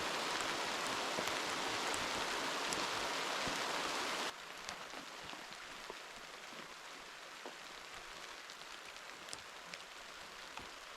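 Heavy rain falling steadily as a dense hiss; about four seconds in it cuts abruptly to softer rain in which separate drops can be heard tapping.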